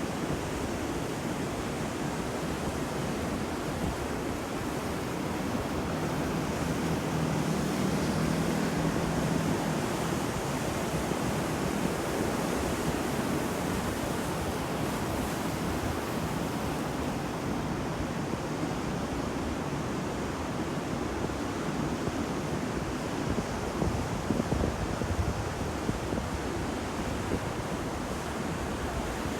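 Sea waves washing onto a shore: a continuous surf rush that swells a little about a quarter of the way in.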